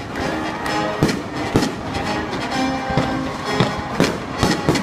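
Music playing with aerial fireworks going off over it: about eight sharp bangs at irregular intervals, several in quick succession near the end.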